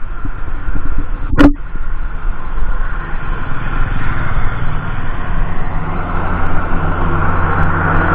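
Steady rumble of a moving vehicle, with one sharp knock about a second and a half in.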